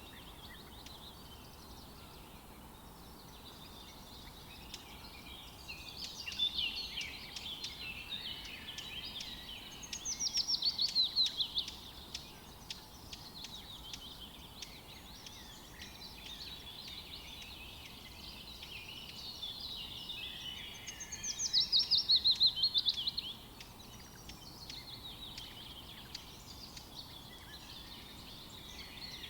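Several forest songbirds chirping and singing together. Twice, about a third and about two-thirds of the way through, a louder song rings out: a fast run of notes falling in pitch, lasting about two seconds.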